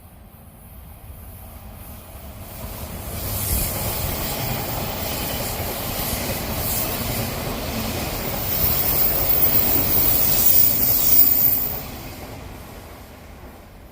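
Odakyu Line electric commuter train passing close by: the rolling noise builds over a couple of seconds, holds loud for about eight seconds, then falls away quickly. A thin, very high squeal rides over it near the end of the pass.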